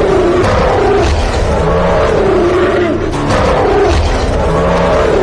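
Loud, repeating roar-like growl, wavering in pitch, coming about once every second and a bit, with low thumps under it.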